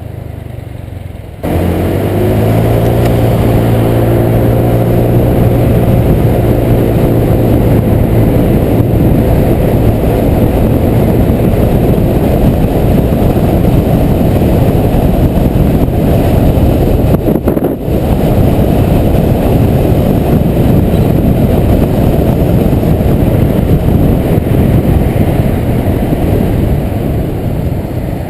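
Honda PCX 125 scooter's single-cylinder engine pulling away suddenly about a second and a half in, its note rising over a few seconds and then holding steady. A loud, even wind rush on the camera microphone at riding speed lies over it, dipping briefly about two-thirds of the way through and easing near the end.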